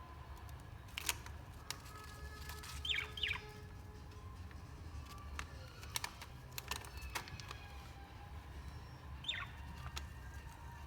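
Caged pet birds chirping: two quick falling chirps about three seconds in and one more near the end, among a few sharp clicks and taps from the cage, over a low steady hum.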